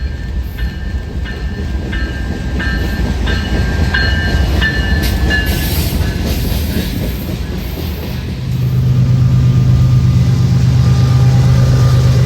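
A train passing on the line, with a rumble and an even rhythm of wheel clacks. About eight seconds in, a loud steady low hum sets in and holds.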